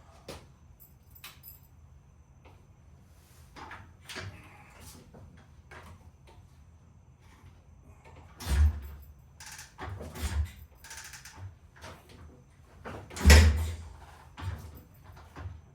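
Kickstarter being kicked on a 1969 Triumph T100's 500 cc parallel twin: two heavy thumps, about eight and a half seconds in and again some five seconds later, with lighter knocks and clatter around them. The engine does not catch.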